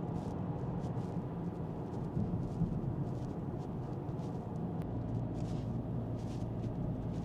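Steady low rumble of a car on the move, heard from inside the cabin: engine and road noise without any change in pace.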